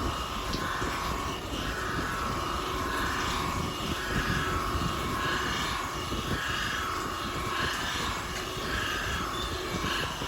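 Alex rotary surface grinder grinding a sheet-cutting die: a steady grinding noise that swells and fades at a regular pace, about once every 0.8 seconds.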